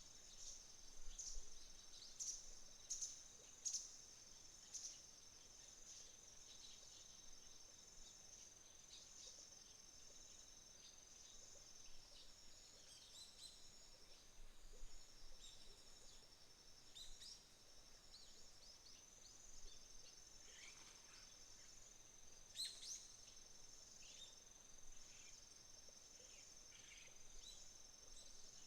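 Faint chorus of autumn crickets: one steady high-pitched trill runs throughout, with a second, pulsing insect song beneath it. Short bird chirps come and go, most of them in the first few seconds and again around twenty seconds in.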